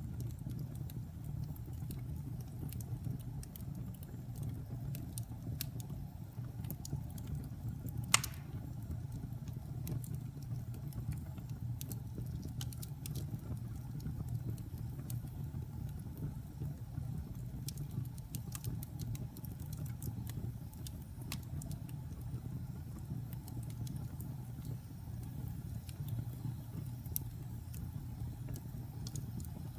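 Wood fire burning in a fireplace: a steady low rumble of flames with scattered small crackles and pops, and one sharp loud pop about eight seconds in.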